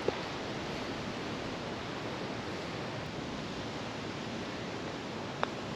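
Steady gusting wind noise on the microphone. A short click just after the start is a putter striking the golf ball, and a second short click comes about five seconds later.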